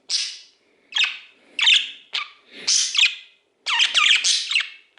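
Pet budgerigar chattering in short, harsh, scratchy bursts, about six in five seconds.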